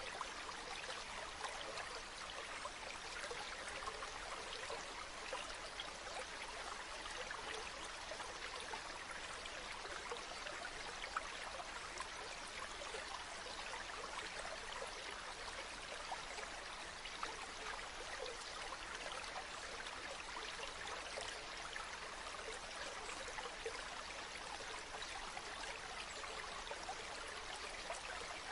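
Running water flowing steadily, a continuous trickling rush dense with small splashes.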